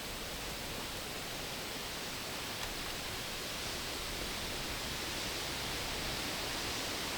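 Steady, even hiss of heavy water, rain or runoff, growing slightly louder.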